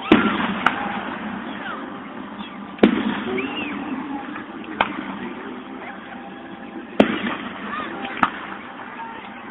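Fireworks bursting overhead in a string of sharp bangs: six in all, the loudest about three and seven seconds in. Recorded through a phone's microphone.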